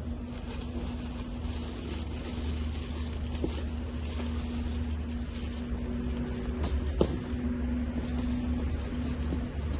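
Wood fire burning hard in a compact fire pit: a steady low rumble with a faint hum, light crackling and a few sharp pops, the loudest about seven seconds in.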